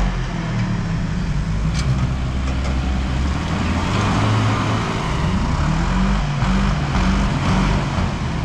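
Jeep Cherokee's engine running at low revs as the SUV crawls over rough off-road ground, the low engine note wavering a little in pitch.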